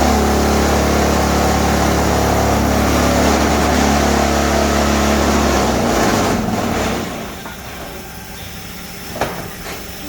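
RH1S12 paving block machine running with a loud, steady mechanical hum that stops about six to seven seconds in, followed by a single sharp knock near the end.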